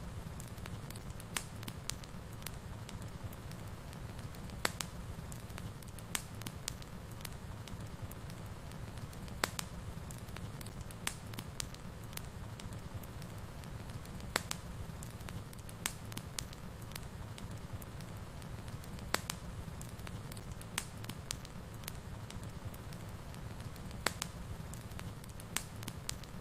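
Wood fire burning in a fireplace: a steady low rumble with sharp, irregular crackles and pops every second or few.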